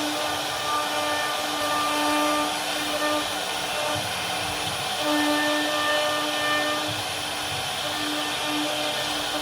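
CNC router spindle carving wood: a steady hissing noise with a humming tone that drops in and out every second or so as the bit moves through the cut.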